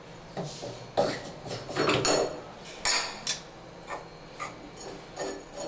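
Metal clinks and knocks, about seven at irregular intervals, from chrome escutcheon trims being worked off an old three-handle tub and shower valve.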